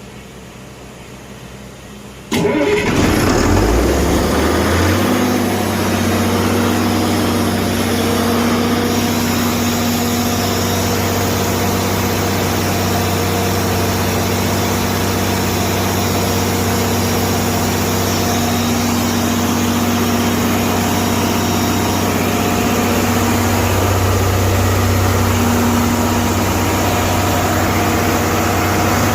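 Allis-Chalmers 3500 426-cubic-inch six-cylinder diesel engine on a test stand starting about two seconds in, catching and picking up speed, then running steadily.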